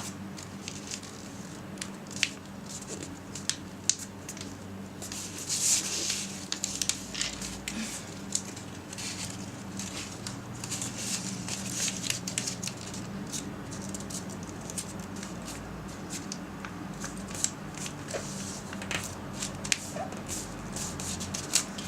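Square sheet of paper being folded and creased by hand: crisp rustles, crackles and scattered sharp clicks come and go irregularly. A faint steady hum sits underneath.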